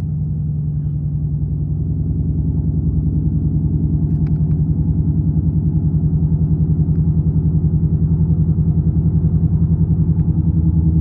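2024 Mustang GT's 5.0 V8 idling through a Street Demon dual-mode performance exhaust: a steady, evenly pulsing low rumble that grows slightly louder.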